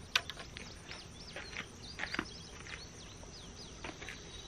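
Small birds chirping in many short, high, quick pitch sweeps. A single sharp click just after the start comes from the Pig Saddle clamp on the tripod head being handled, and a couple of soft knocks follow around two seconds in.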